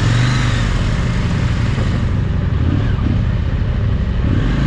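Large parallel-twin adventure motorcycle engine running steadily under way on a dirt trail, with rushing noise over the steady engine note.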